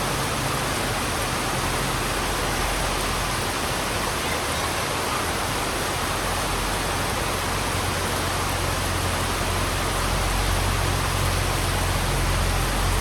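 Heavy rain falling on a road: a dense, steady hiss, with a low hum underneath that grows a little louder for the last few seconds.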